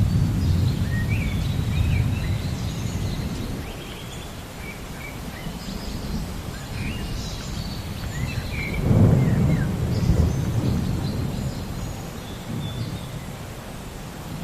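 Thunder rumbling low, fading away and then swelling again about nine seconds in, while small birds chirp and twitter throughout.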